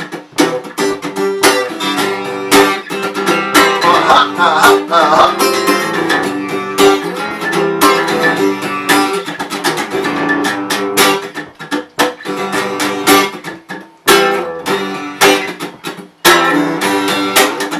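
Acoustic guitar strumming chords in a steady rhythm, with no voice over it, and a couple of brief breaks in the later part.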